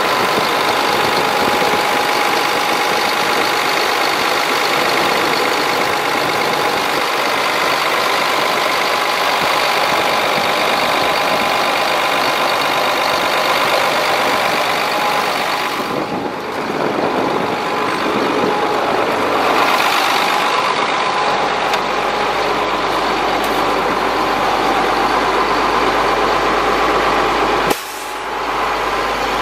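2000 Chevrolet C7500 ladder truck's engine running steadily, with a steady whine over the engine noise. The sound dips briefly a little past halfway and drops off sharply near the end.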